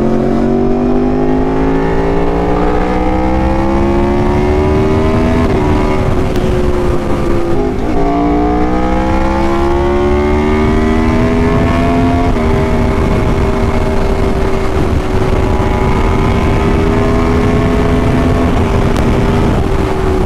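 Aprilia Tuono motorcycle engine pulling hard through the gears: the engine note climbs steadily, drops sharply at upshifts about five and a half, eight and twelve seconds in, then holds a nearly steady note at cruising speed.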